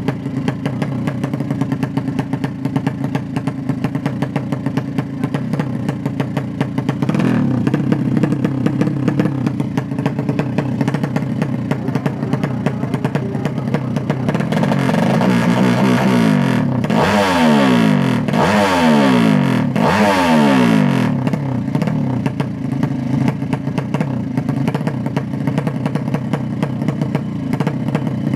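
Racing motorcycle engine running steadily, then revved up and down about three times in quick succession in the middle, the pitch climbing and dropping with each rev.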